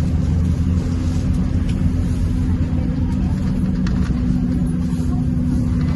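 Scania K230UB city bus's diesel engine running steadily: a low rumble with a constant hum over it and little change in pitch.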